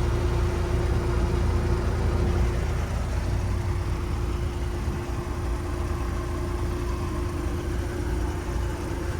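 Steady low mechanical rumble with a constant hum held at one pitch.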